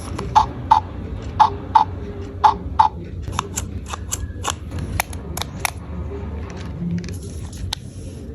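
Plastic pieces of a toy doctor kit being handled. For the first three seconds there are paired clicks about once a second, then scattered sharper clicks and taps of plastic parts.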